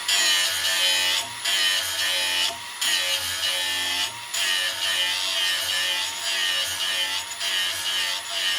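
Power grinding wheel grinding a steel lawnmower blade. The blade is pressed on in strokes with short breaks between them, taking metal off the heavy end to balance the blade.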